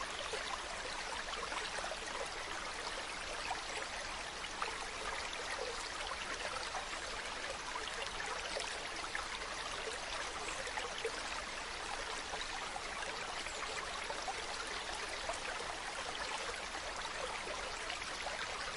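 Mountain stream running steadily over rocks, a continuous babbling and splashing rush of water.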